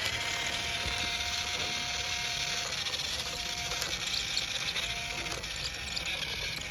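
Small electric motor and plastic gears of a remote-control toy tractor whirring steadily, the pitch shifting slightly now and then.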